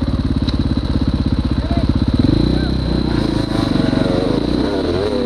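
Dirt bike engine running at idle with even rapid pulses, then revving up about two seconds in and staying at higher revs with varying pitch.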